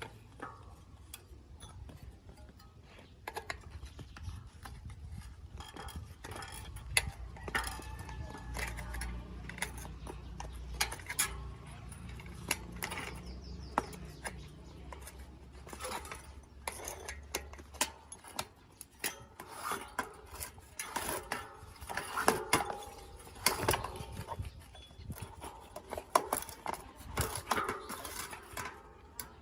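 Metal bicycle parts and hand tools clinking, tapping and knocking in irregular handling, busier and louder in the second half, over a low steady hum that stops a little past halfway.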